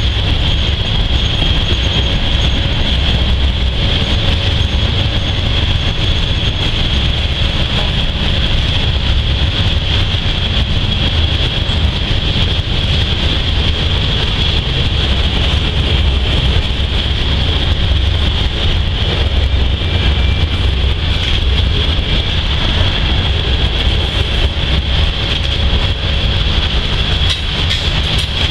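Freight cars (tank cars and covered hoppers) rolling past at a steady speed: a continuous heavy rumble of steel wheels on rail, with a steady high ringing above it.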